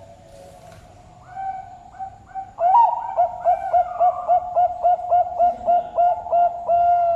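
Zebra dove (Bangkok perkutut) cooing: a few soft notes, then a loud rising note about two and a half seconds in, followed by a fast run of about a dozen short repeated coos and a long held note near the end.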